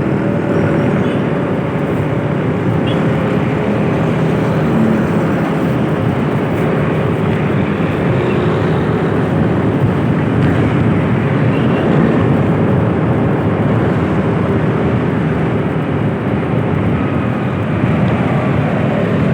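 Steady vehicle noise on the move: a running engine under constant road and wind noise, with no change in pace.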